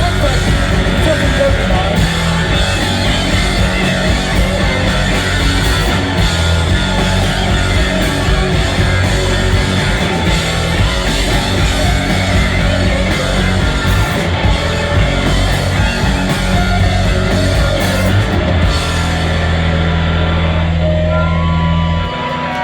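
Live garage-punk band playing an instrumental stretch: distorted electric guitars, bass and a drum kit at full volume. Near the end the drums stop and a held chord rings on, then drops away about a second before the end, leaving wavering high tones.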